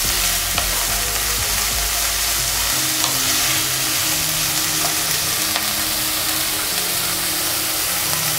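Soaked moong dal and chopped onion sizzling steadily in hot oil in a nonstick kadhai over a high gas flame, stirred with a wooden spatula, with a few light ticks of the spatula against the pan.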